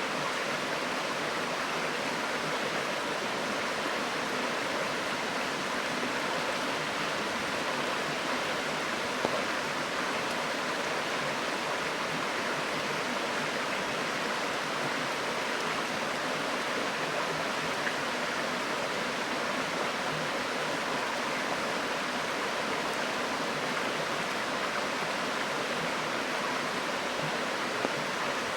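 River water flowing steadily, with three brief pops from a wood campfire.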